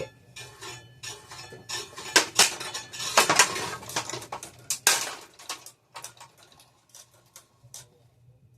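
Spinning ceiling fan blades smashing into a spare ceiling fan blade pushed into them: a rapid, loud clatter of plastic and wood hits. The clatter thins to scattered clicks about six seconds in, over a low steady motor hum.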